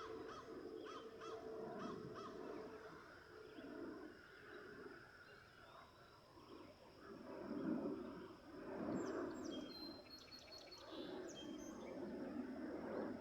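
Wild birds calling in an open meadow: a quick run of short repeated chirps at the start, then high, rapid twittering notes about nine to eleven seconds in, over a faint low background rumble and a thin steady high-pitched tone.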